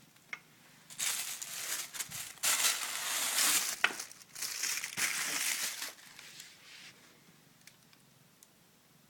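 A kitten scrabbling and rustling inside a cardboard box: crinkly scratching and crumpling bursts with a few sharp clicks, from about a second in until about six seconds, then fading.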